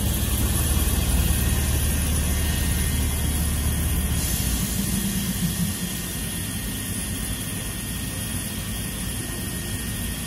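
Izukyu 8000-series electric train rolling slowly into the platform and coming to a stop. A strong low rumble fades out over the first five or six seconds, and a steady hiss joins about four seconds in.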